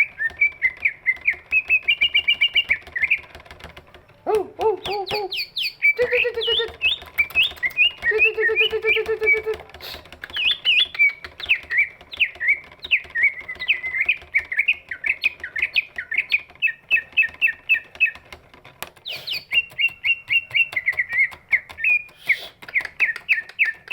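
Cucak ijo (green leafbird) singing a long, unbroken song of rapid chirps and trills, with a few lower, rattling phrases in the first half.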